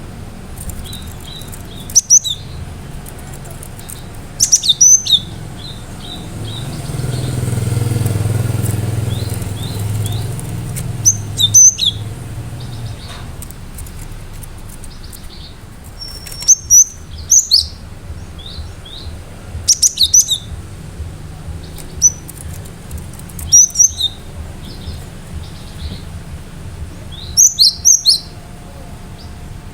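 Cinereous tit (gelatik batu) singing loud bursts of short, sharp, high notes every few seconds, with softer chirps between them. A low rumble swells and fades about a third of the way through.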